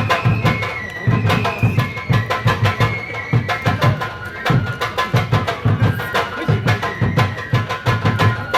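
Shinto kagura music: drums beating a steady rhythm with sharp percussion strokes, under a high flute melody of held, sliding notes.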